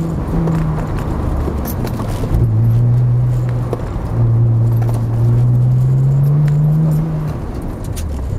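Nissan 300ZX Twin Turbo's 3.0-litre twin-turbo V6 heard from inside the cabin under hard driving: the engine note dips as the throttle is lifted, holds lower, then climbs steadily for about two seconds under acceleration before dropping off near the end. Light rattles and clicks from the car's interior sound throughout.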